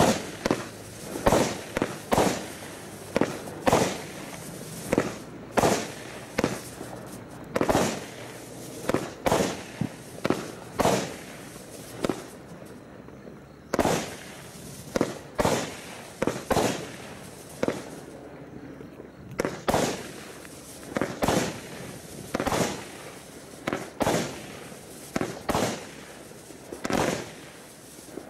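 Bright Star 'Jewel of the Nile' 25-shot barrage firework cake firing: a rapid run of sharp bangs, about one to two a second, each with a short fading echo, broken by two brief lulls.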